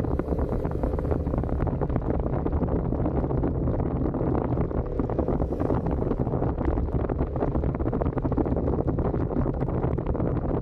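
Suzuki SV650's V-twin engine running through its stock exhaust at a steady cruising speed, with wind buffeting the microphone.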